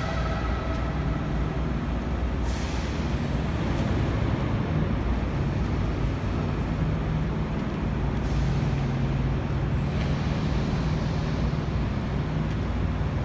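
Steady low drone of idling diesel truck engines, with two short hisses of air brakes, one about two and a half seconds in and one about eight seconds in.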